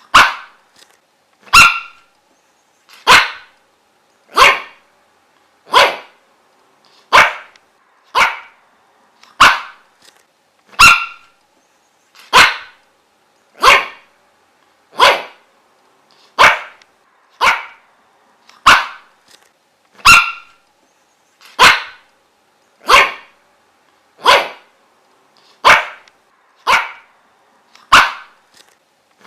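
A dog barking single, evenly spaced barks over and over, about three every four seconds, in a steady rhythm.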